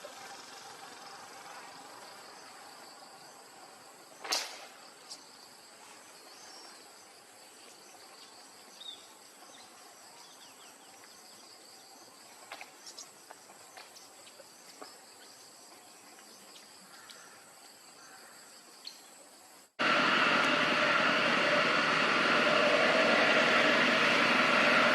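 Quiet outdoor ambience with a thin, steady high insect drone, one sharp click about four seconds in and a few faint clicks and chirps. About twenty seconds in it cuts abruptly to a much louder steady noise.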